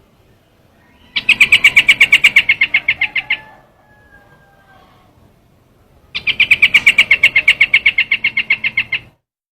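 Lure recording of the bird called trao trảo in Vietnamese calling: a fast, even run of sharp notes, about ten a second, lasting a couple of seconds. A second, slightly longer run comes about five seconds after the first.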